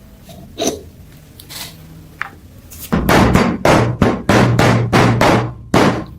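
A few scattered knocks, then about nine quick rasping strokes of a hand tool on a metal part, about three a second, that stop near the end.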